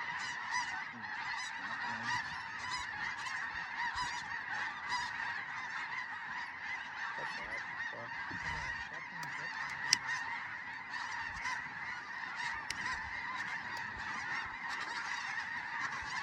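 A large flock of snow geese calling all together, a dense, unbroken chorus of high yelping honks. A single sharp click about ten seconds in.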